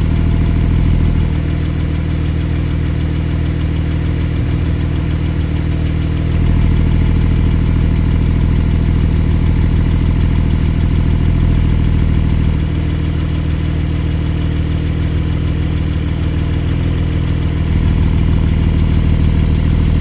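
Porsche 992 911 Carrera S twin-turbo 3.0-litre flat-six idling through a Cargraphic valved exhaust, its level stepping up and down as the exhaust valves are switched: louder and deeper with the valves open, quieter with them closed. It drops about a second in, rises at about six seconds, drops again at about twelve and a half seconds and rises near the end.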